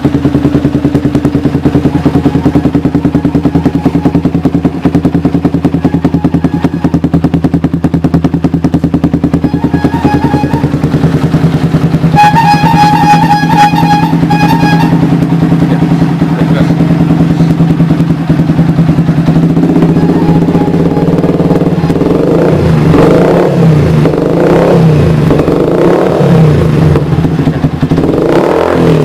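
Yamaha New Vixion Advance's single-cylinder four-stroke engine through an Akrapovic megaphone racing exhaust, idling steadily and loudly, then revved in repeated short throttle blips from about two-thirds of the way through.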